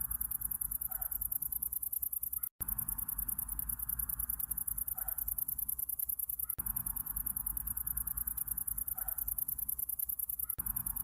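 Looped summer-night ambience of insects trilling in a fast, even, high-pitched pulse over a low rumble, with a short call recurring about every four seconds. The sound cuts out for an instant about two and a half seconds in.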